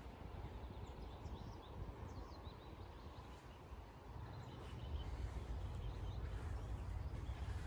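Small birds chirping faintly, mostly in the first two seconds and now and then later, over a steady low rumble.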